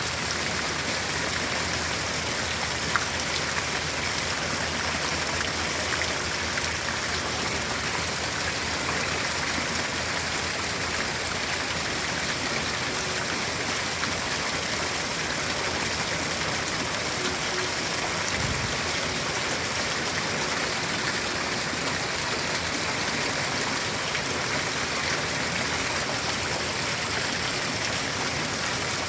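Steady rainfall, an even hiss with occasional sharper drop ticks. A short low thud comes about two-thirds of the way through.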